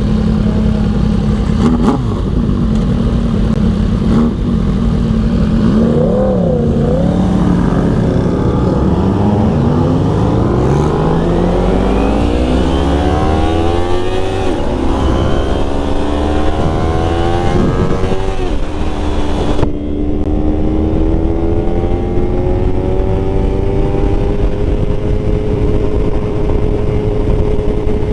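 Motorcycle engine running under the rider, slowing briefly, then accelerating hard: its pitch climbs, drops at two upshifts, and settles into a steady, slowly rising cruise, with wind rush over it.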